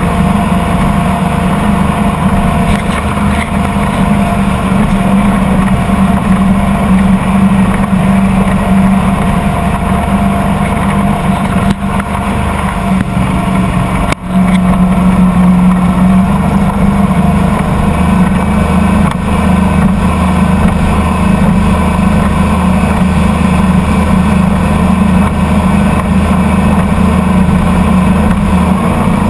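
Motorboat engine running steadily under way, with a constant low drone and rushing noise and a brief drop in level about halfway through.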